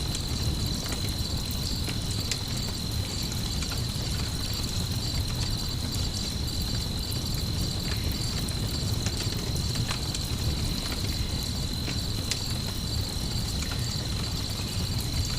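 Layered night-ambience mix: crickets chirping in a steady, high pulsing trill over a campfire crackling with scattered small pops, above a low steady rumble.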